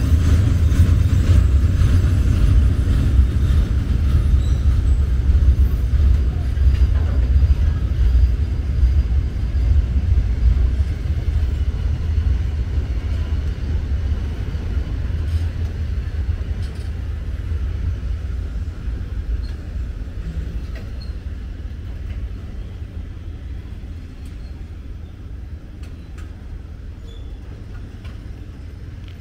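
Container freight train's wagons rolling past on the rails, a low steady rumble that slowly fades as the train draws away.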